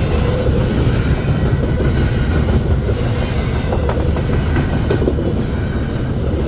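Intermodal freight train's cars rolling past, a steady low rumble with some faint wheel clatter.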